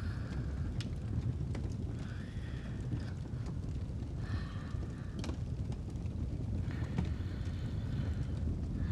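Fireplace ambience: a steady low rumble with the fire's scattered sharp crackles, and slow rhythmic breathing on top, one breath about every two seconds.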